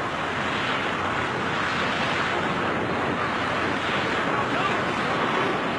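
Steady rushing wind on a microphone during a skydiving freefall.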